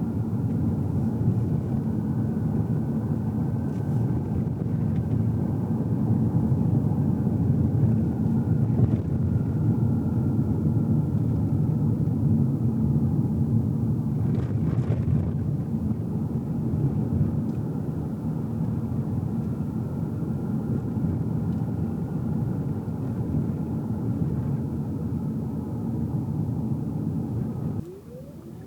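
Road noise inside a moving car: a steady low rumble of tyres and engine, with a faint high whine that drifts slightly in pitch. The rumble drops off sharply near the end.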